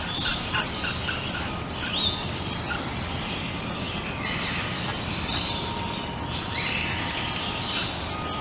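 Birds calling outdoors: many short, high chirps and calls overlapping, with one clear rising call about two seconds in.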